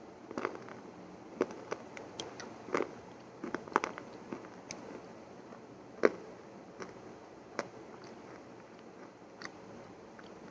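Close-miked chewing of crunchy food: irregular sharp crunches and crackles, thickest in the first four seconds with the loudest crunch about six seconds in, then sparser.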